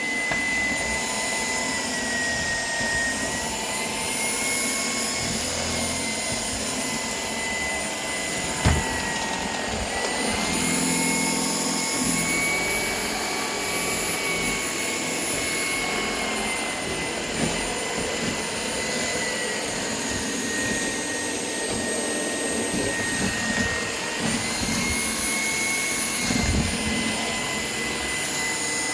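Shark PowerDetect cordless stick vacuum running continuously, a steady motor whine that shifts slightly up and down in pitch a few times. A single knock comes about nine seconds in.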